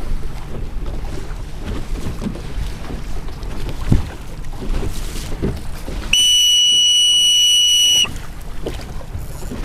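Wind and water noise on a boat on open water, with wind buffeting the microphone. About six seconds in, one steady high-pitched signal tone sounds for about two seconds and cuts off suddenly.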